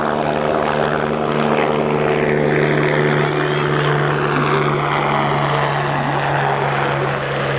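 Agusta A109E twin-turbine police helicopter running loud and steady, its rotor and turbine sound held at an even level, with a higher whine that slowly falls in pitch.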